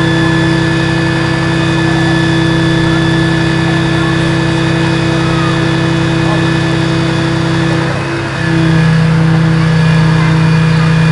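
Diesel engine of a Scania aerial ladder platform fire engine running steadily. A little past eight seconds in it dips briefly, then settles a little louder.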